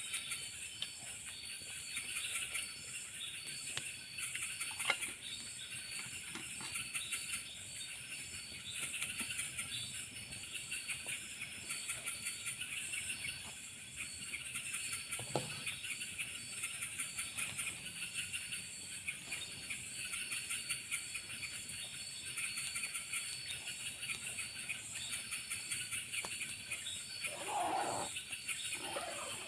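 Forest insect chorus, likely cicadas and crickets: dense, rapid, high-pitched trilling and buzzing, with a few steady high whines running underneath. A brief, louder, lower sound comes in near the end.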